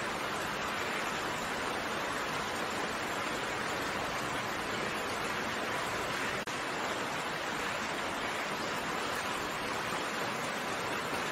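Steady rain falling, an even hiss of drops with no distinct single strikes, broken by a brief dropout about six seconds in.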